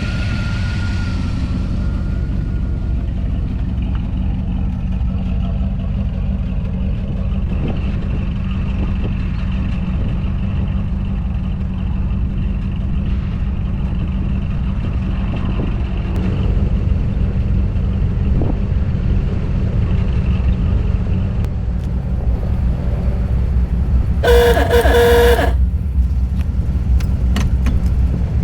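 Chevrolet V8 from a 1975 truck, with an Edelbrock intake and carburetor and shorty tubular exhaust headers, running steadily as a low rumble that gets a little louder about halfway through. A horn sounds for about a second near the end.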